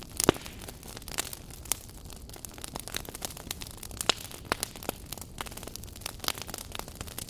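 Wood fire burning in a fireplace, crackling: a steady soft hiss with frequent irregular sharp pops and snaps, the loudest near the start and around four seconds in.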